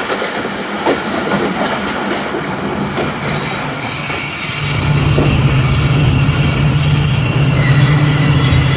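Tezgam Express passenger train running on the rails with a steady high-pitched squeal of wheels from about two seconds in, and a deeper steady hum joining about halfway through, as the train slows into a station.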